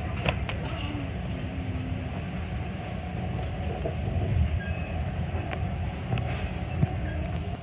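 Metra commuter train car running along the track, heard from inside: a steady low rumble with a few sharp clicks and brief faint squeaks.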